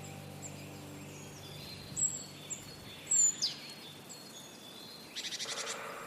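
Birdsong over a steady faint hiss of outdoor ambience: several high whistled calls that slide down in pitch, and a fast rattling trill about five seconds in.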